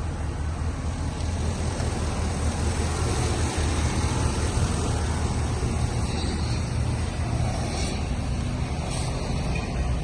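Engine of a 2009 Chevrolet Silverado 3500HD dump truck running steadily at idle, a constant low rumble.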